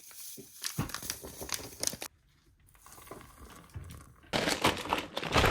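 Crinkling and rustling of something crinkly being handled, in two spells with a short quiet gap about two seconds in; the second spell, near the end, is louder.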